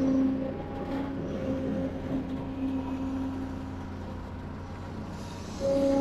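Diesel engine of heavy construction machinery running steadily under load, with a low drone and a steady whine that rises and eases.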